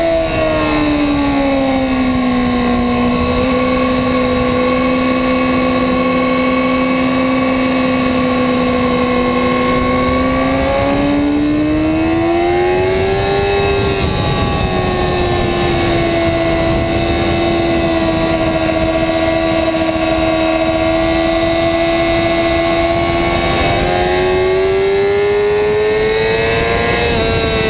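2008 Yamaha R6 inline-four sport-bike engine running at high revs on track. The engine note drops about two seconds in and holds steady, then climbs at around eleven to thirteen seconds and holds again. It climbs once more near the end before falling off, over a steady rushing noise.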